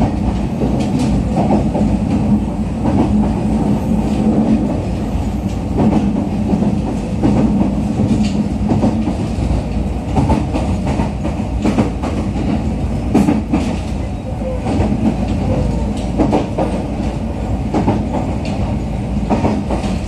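Running noise inside a JR East EV-E301 'ACCUM' battery-electric train: a steady rumble of wheels on rail, with scattered clicks as the wheels pass over rail joints.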